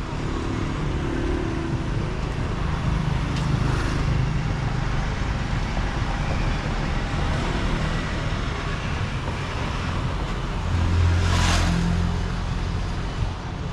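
Road traffic: a steady hum of passing vehicles, with one passing close and loudest about eleven seconds in.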